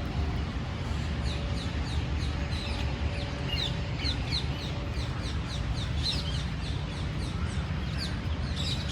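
Small birds chirping: many short, high, quick chirps repeating throughout, over a steady low rumble.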